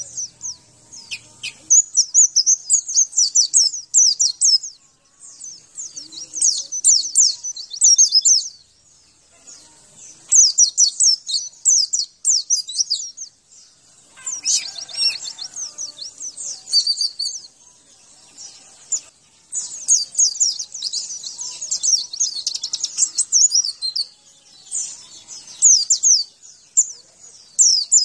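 White-eye (pleci) singing: runs of rapid, high-pitched twittering notes, each lasting two to four seconds, with short pauses between them.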